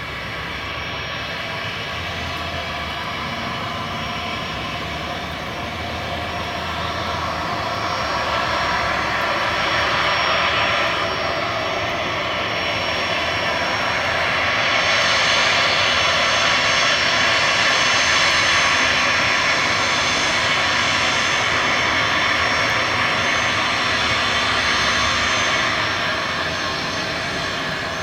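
Cessna Citation Longitude business jet's twin turbofans running with a steady whine over a dense rush of noise. The sound grows louder from about a third of the way in, is loudest through the middle and eases slightly near the end.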